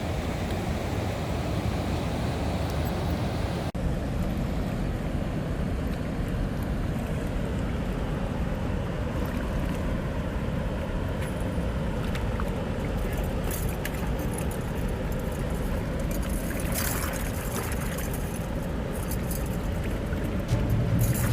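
Steady low rumble and road noise of a car being driven, with a brief break about four seconds in.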